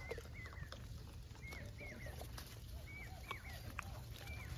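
Faint birds chirping: short, high, hooked chirps, about two or three a second, over a low steady rumble.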